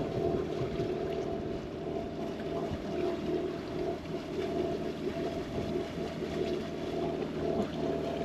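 Sailboat's inboard engine running hard at full throttle, a steady drone with several fixed tones, over the hiss of water along the hull.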